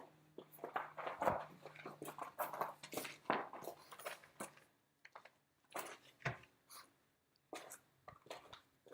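Irregular knocks, scrapes and light metallic clinks from handling wheels, tyres and parts during a wheel swap. There is a faint steady hum under the first half.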